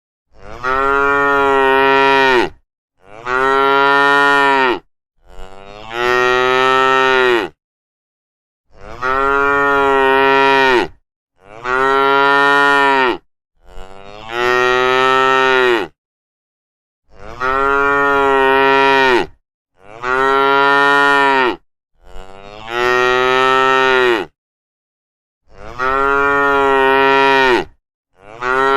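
Cow mooing over and over: about eleven long, drawn-out moos of about two seconds each, all much alike in pitch and shape, with short silent gaps between them.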